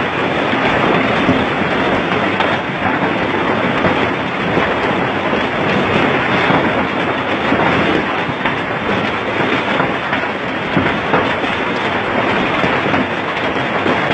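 Heavy rain coming down, a loud, steady, dense hiss.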